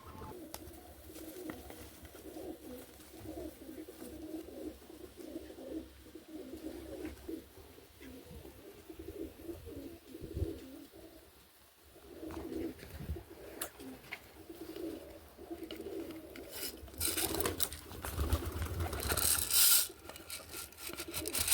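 Pigeons cooing, repeated low calls one after another. Near the end a few louder noisy bursts come over them.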